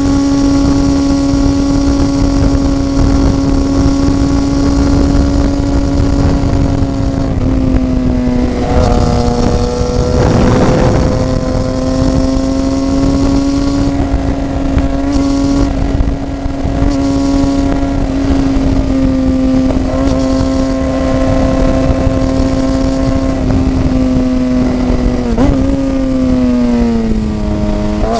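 Motorcycle engine running at a steady cruising pitch over a constant rush of noise. The engine note dips briefly about seven seconds in, and near the end it falls away and then climbs again as the throttle is eased and reopened.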